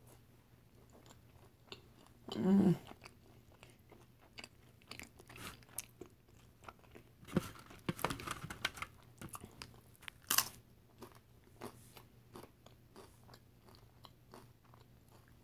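Close-up eating of loaded tortilla-chip nachos topped with queso, salsa and meat: a run of small crackling crunches and chewing, with a louder stretch of crunching about seven seconds in and a sharp crack about ten seconds in. A brief low hum from the eater comes about two seconds in.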